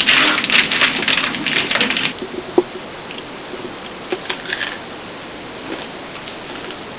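Crackling of a Nature Valley granola bar being handled: a dense run of crackling clicks for about two seconds, then scattered clicks over a faint steady hiss.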